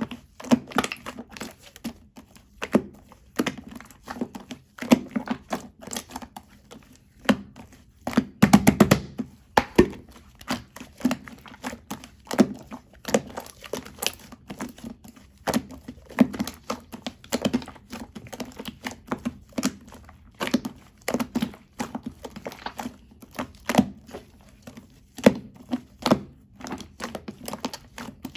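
Chewy slime being squeezed and pressed by hand, giving a steady stream of irregular sticky clicks and pops, with a denser, louder run of crackling about eight seconds in.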